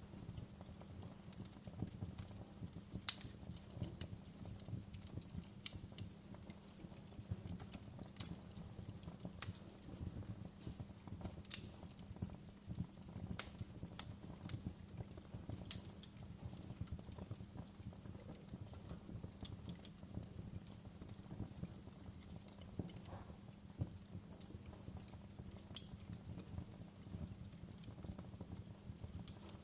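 Wood fire burning in a fireplace, crackling with irregular sharp pops over a steady low rumble; the loudest pop comes about three seconds in.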